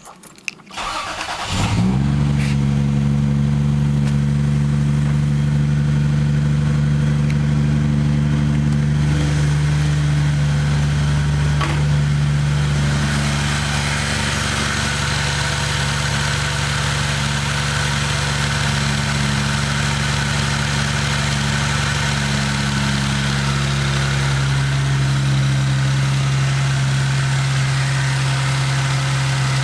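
Car engine cranking briefly and catching about a second in, then idling steadily.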